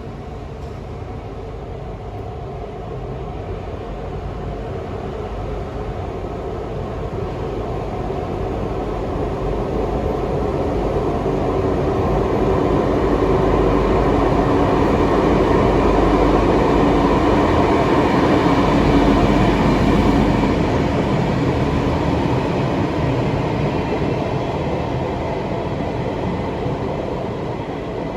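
Taiwan Railway freight train running past on the rails, a dense rumble of wheels and wagons that builds steadily, is loudest about halfway through, then fades as the train draws away.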